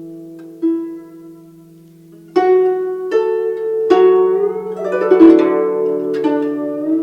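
Guzheng playing a slow melody of plucked notes that ring and fade, with a quiet stretch before a stronger entry about two and a half seconds in, then a busier run of notes with pitch bends.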